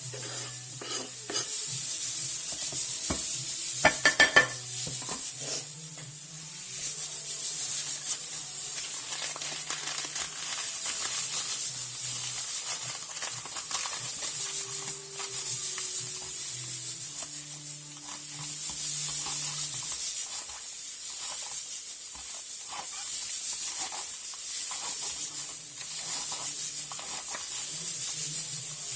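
Food sizzling in a hot frying pan, the hiss rising and falling in waves, with scattered scrapes and clicks of stirring in the pan. A low hum runs underneath and stops about twenty seconds in.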